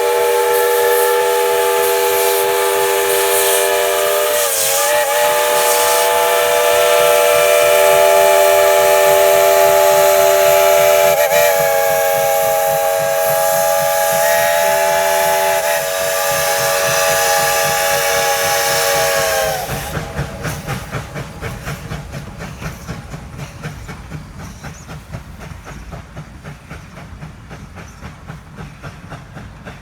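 Steam locomotive whistle blowing one long blast of several notes at once over steam hiss, with two brief dips in the blast. It cuts off about two-thirds of the way through, leaving the train's running sound, a quick even beat, fading away.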